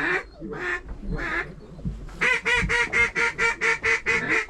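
Duck quacking: a few separate quacks, then from about two seconds in a fast, even run of quacks at about six a second.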